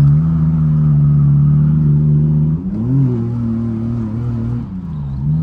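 Turbocharged BMW E30 drift car's engine running at steady high revs. About two and a half seconds in the pitch drops, then climbs back up near the end.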